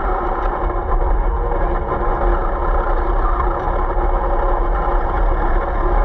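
A vehicle running steadily: a continuous low rumble with a constant hum over it.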